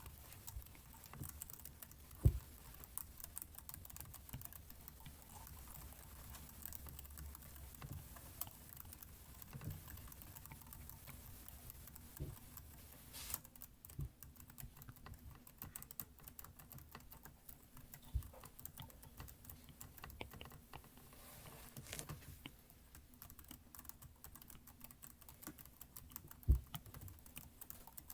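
Computer keyboard keys clicking in an irregular patter, with two louder low thumps, one about two seconds in and one near the end.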